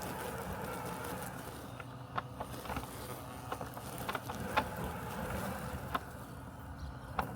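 Robotic lawn mower running with a steady hum. From about two seconds in, short sharp clicks come at irregular intervals over the hum.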